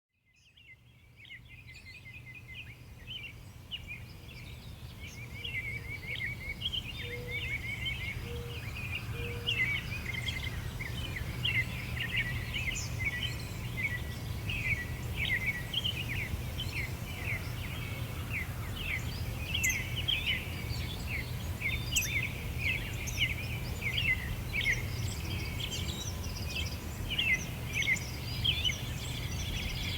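Many small birds chirping and singing in a dense, busy chorus of quick high notes over a steady low rumble, fading in from silence over the first few seconds. A few short low notes sound about a third of the way in.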